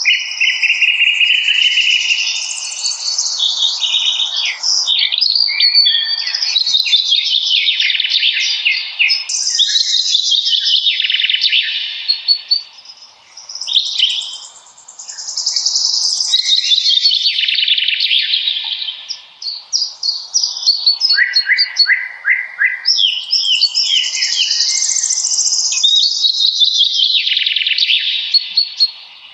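Songbirds singing: long, fast trilled phrases that fall in pitch, one after another with short pauses, over a faint hiss.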